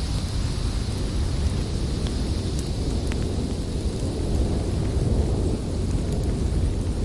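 Storm wind blowing with a steady deep rumble, with a few sparse crackles and pops from a wood fire.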